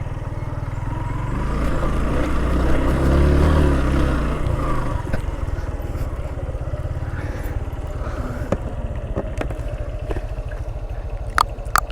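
Motorcycle engine running at low speed, swelling louder for a few seconds about a second and a half in as it pulls harder, then settling back. A few sharp clicks near the end.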